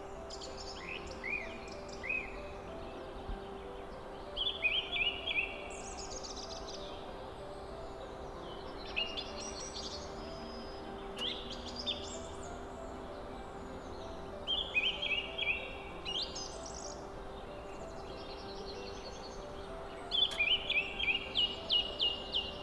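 A songbird singing phrases of rapid chirps and quick descending trills, repeated every few seconds, over a steady hum.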